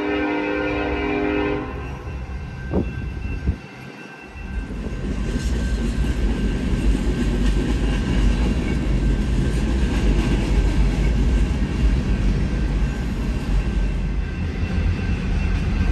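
A freight train's multi-chime locomotive horn sounds a held chord that stops about two seconds in. After a brief lull, the heavy low rumble of the train rolling past builds and continues.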